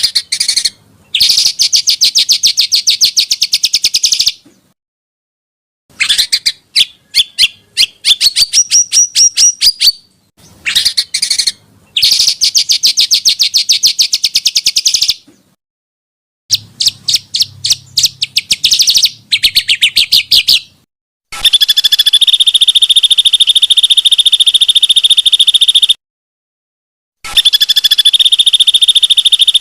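Recordings of small songbirds singing rapid, rough trills and chattering bursts of repeated high notes, each clip starting and stopping abruptly with short silent gaps between. About two-thirds of the way through, a long steady shrill trill takes over, cut by one gap.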